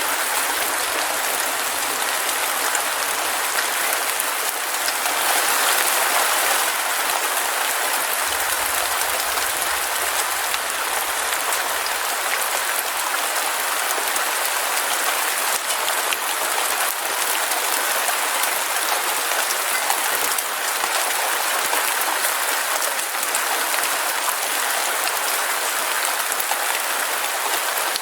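Heavy rain falling steadily: a dense, even hiss of drops with many small sharp ticks of drops striking a surface.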